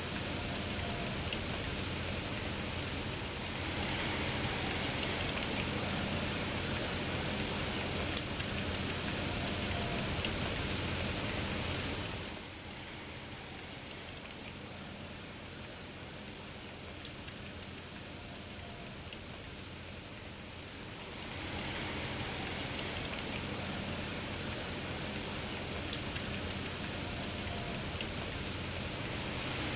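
Rain falling steadily, a dense hiss of drops, with a few sharp single drips standing out above it. About twelve seconds in, the rain eases and goes quieter for several seconds before picking up again.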